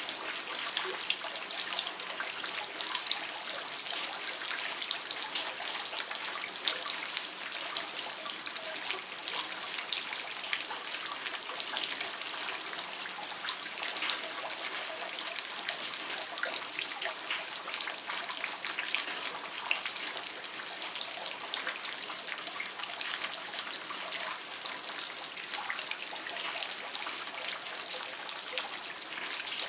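Steady rain: a dense, even hiss of falling drops with many small sharp drop hits, and water trickling.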